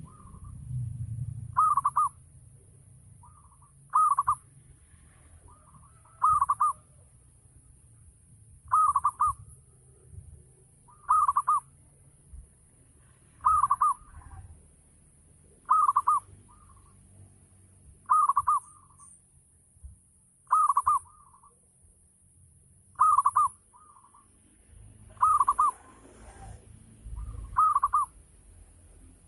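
Zebra dove (perkutut) cooing, a short rolling phrase repeated about every two and a half seconds.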